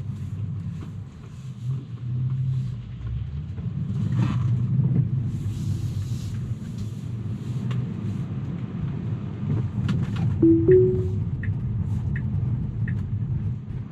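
Steady road and tyre rumble inside a moving Tesla's cabin on a wet road. About ten seconds in comes a short two-note rising chime, followed by a few soft ticks evenly spaced about two-thirds of a second apart.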